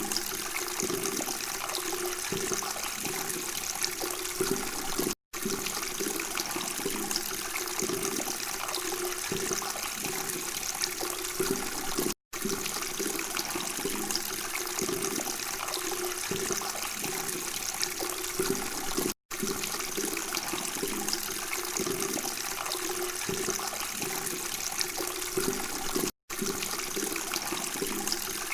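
Water flowing and babbling steadily, dropping out for a split second about every seven seconds.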